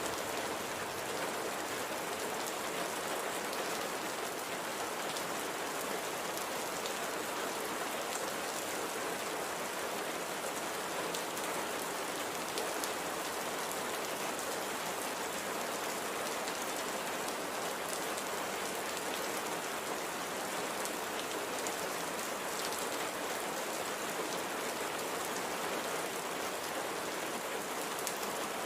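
Steady rainfall: an even hiss of light rain with fine drop patter on a surface, unbroken throughout.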